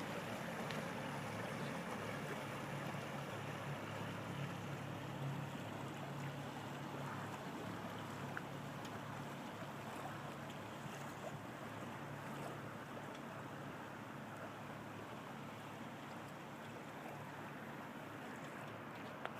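Steady rush of water and wind from a sailboat under way, easing off slightly.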